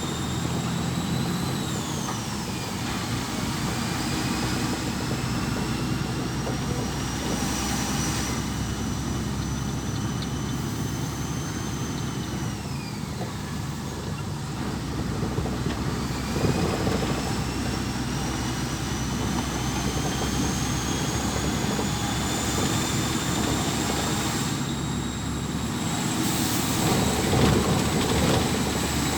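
Lorry on the move, its engine running with a steady low rumble. Over it, a thin high whine climbs slowly and falls away sharply twice before rising again.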